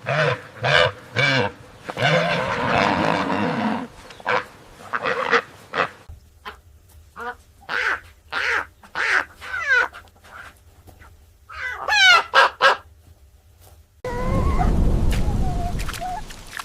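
Farm waterfowl calling in a run of short, repeated calls, some falling in pitch. About fourteen seconds in, the sound cuts to a different, steadier wavering call over a low rumble.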